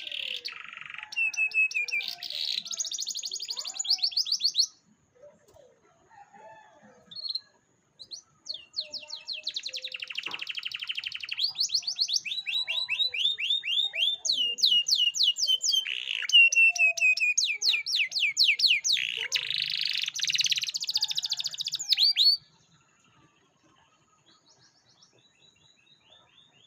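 Domestic canary singing rapid trills and strings of repeated notes. A short phrase at the start is followed by a long song from about a third of the way in until near the end, then quiet.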